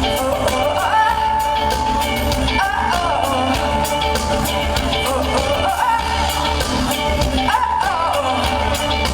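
Electronic pop band playing live: a steady beat and deep bass under a wavering high melody line.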